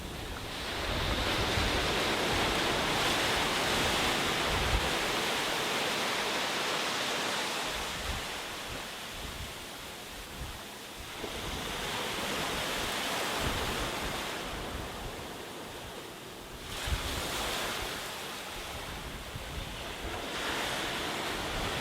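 Sea waves breaking and washing up the beach, the surf swelling and ebbing in slow surges a few seconds apart, with low wind rumble on the microphone.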